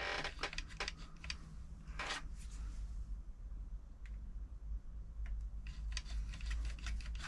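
Light clicks, taps and rattles of small metal parts and tools being handled on a sewing machine during repair, with a louder scrape about two seconds in. The clicks thin out to a few isolated ones in the middle and come thick again near the end, over a low steady hum.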